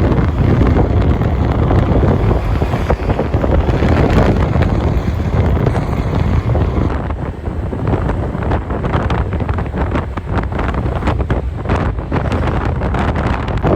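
Wind buffeting the microphone: a loud, steady low rumble, with some irregular knocks and rustles in the second half.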